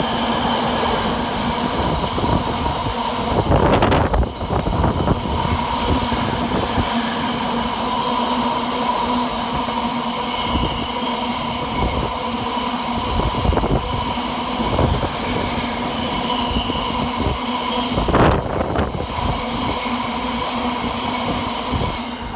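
Class 66 diesel-hauled container freight train passing, its wagons rumbling and clattering over the rail joints with a steady ringing from the wheels. There are louder knocks about 4 seconds in and again near 18 seconds.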